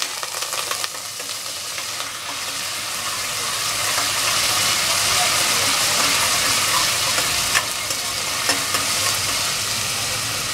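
Oil sizzling as stuffed brinjals and curry leaves fry in a steel pressure cooker, stirred with a steel spoon that clicks against the pot a few times in the second half.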